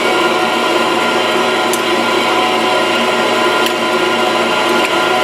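Bench pedestal grinder running steadily, a constant motor hum and wheel whine, with a few light ticks about two, four and five seconds in.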